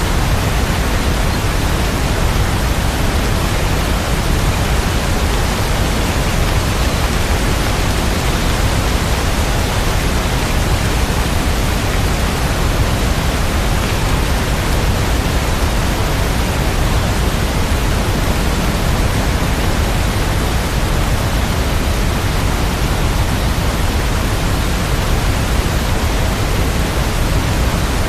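Steady, dense rain sound: an even hiss with no single drops, thunder or music standing out.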